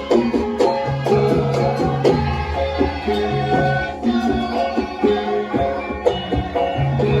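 Javanese gamelan playing dance music: a steady melody of struck, ringing pitched metal notes over hand-drum strokes.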